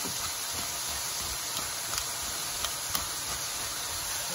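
Pork strips sizzling steadily in a hot oiled pan, with a few sharp ticks over it.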